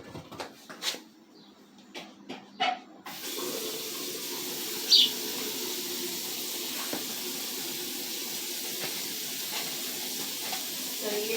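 A few light knocks, then a water tap is turned on about three seconds in and runs with a steady hiss into a sink. A single short high chirp sounds over it about two seconds later.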